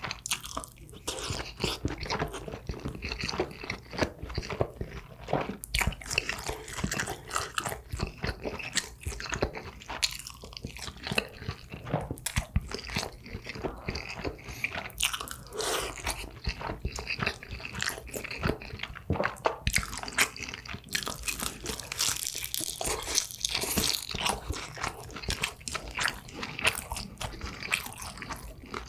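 A person chewing and crunching food, with frequent crisp bites and wet mouth sounds in an irregular, dense patter.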